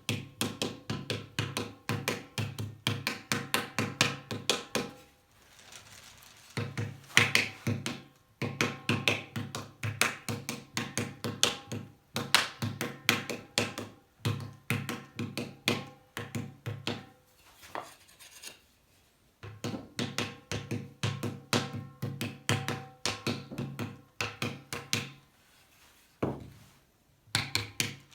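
Paddle beating clay in paddle-and-anvil pottery forming: quick runs of sharp thunks, about four strokes a second, broken by short pauses.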